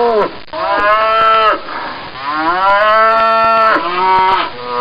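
Cattle mooing: several long moos in quick succession, each rising and then falling away.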